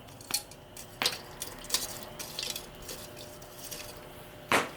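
Metal cooking utensils clinking and knocking against cookware in a few separate strikes, with the loudest knock near the end.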